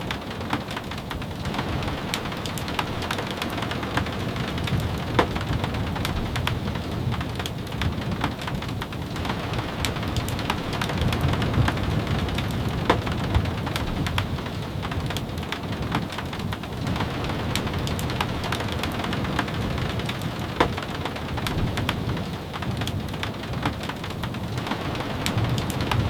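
Steady rain, with a low rumble underneath and many scattered sharp ticks and pops.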